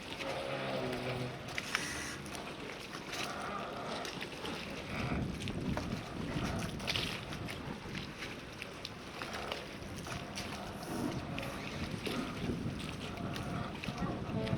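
Port ambience: a steady rush of wind and water, broken by scattered light knocks and clicks, with a faint pitched sound about a second in.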